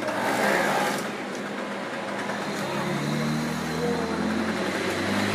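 A motor vehicle's engine running, coming in about halfway through as a steady low hum over the street background.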